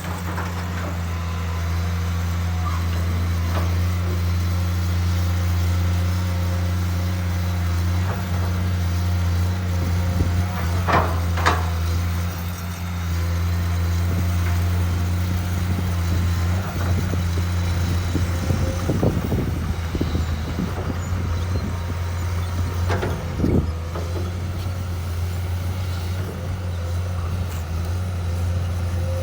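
Hydraulic excavator diesel engine running steadily under work, with a few short knocks and clanks from the machine about a third of the way in and again past the middle.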